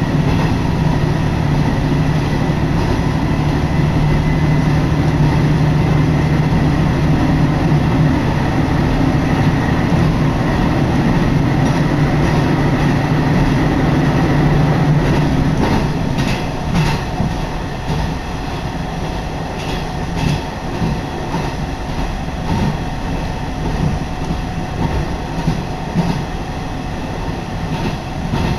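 Diesel railcar running along the line, heard from on board. A steady engine drone with a low hum fills the first half; a little past halfway it drops away as the car coasts, leaving the wheels clacking over rail joints.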